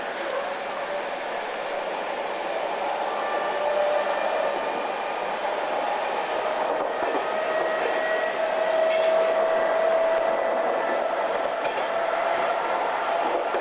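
Odakyu 5200-series electric train running, a steady rushing noise with a clear whine that slowly rises in pitch and grows louder.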